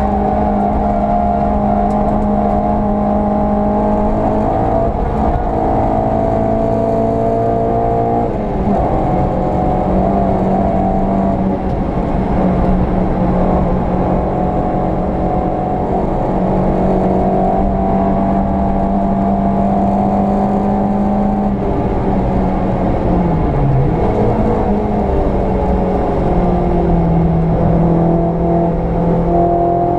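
VW Polo 86C engine pulling under load at steady, high revs, with a sharp drop in pitch about eight seconds in as it changes gear, then rising and falling again later as revs change.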